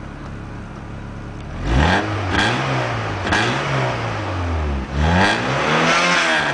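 Eagle Talon DL's 1.8-litre 4G37 four-cylinder engine heard at the tailpipe, idling, then revved up and let fall several times from about a second and a half in. It is burning off Seafoam cleaner, with heavy white exhaust smoke.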